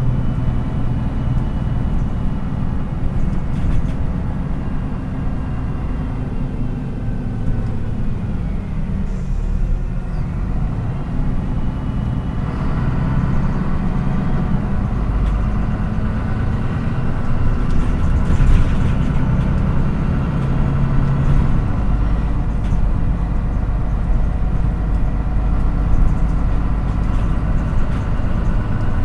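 MAN NÜ 313 bus engine heard on board while driving: it eases off about a third of the way in, then pulls again and runs a little louder through the second half.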